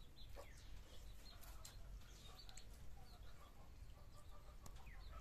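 Faint birds chirping now and then over a low, steady background hum; otherwise near silence.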